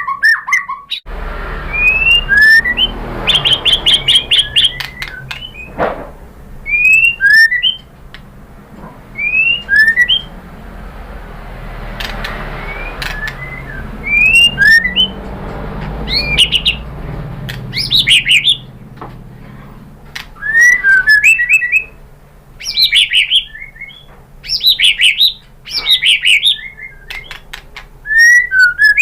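White-rumped shama singing: phrases of short, rising whistled notes with sharp chips, repeated every second or two and coming faster toward the end, over a faint steady background hiss.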